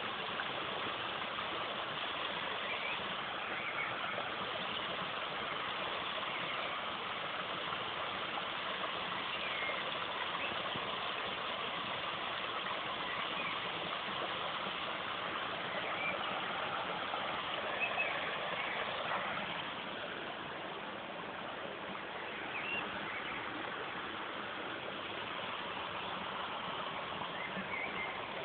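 Steady rush of flowing water, with a few faint bird chirps now and then.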